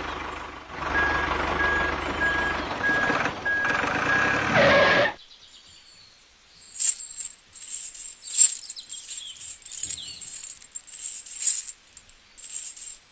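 A machine runs noisily with a steady hum while a beep repeats about twice a second, then cuts off abruptly about five seconds in. Faint, scattered high chirps follow.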